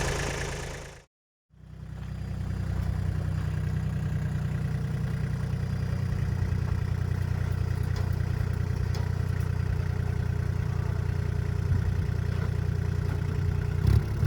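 Tractor engine running steadily at a low, even drone. The sound drops out briefly about a second in, then fades back in.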